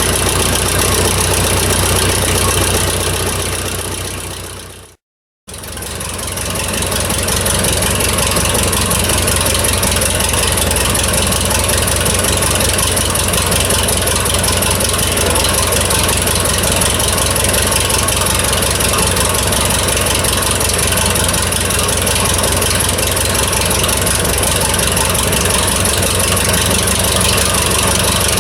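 1934 McCormick-Deering W-30 tractor's four-cylinder engine idling steadily with an even, rapid firing beat after a hand-crank cold start. The sound fades out to silence for a moment about five seconds in, then comes back.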